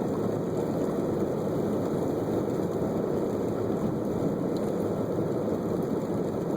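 Car driving slowly through wet snow, heard from inside the cabin: a steady mix of engine and tyre noise.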